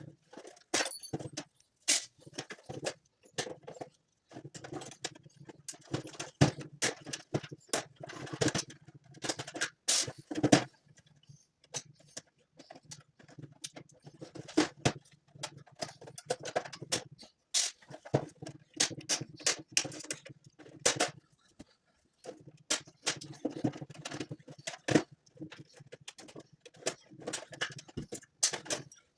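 Handling noise from work on an Xbox 360 console: irregular clicks, taps and scrapes, with a low hum in long stretches.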